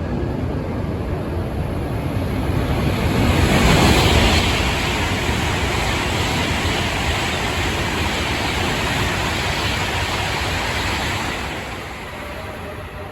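Tohoku Shinkansen E2 and E3 series coupled train passing through at high speed: a loud rush of air and wheel noise. It swells to a peak about four seconds in, holds steady, then drops away near the end.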